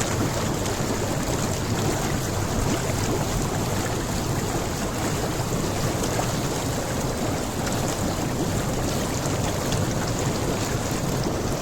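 Hot tub's air jets churning the water: a steady bubbling rush with a low rumble underneath.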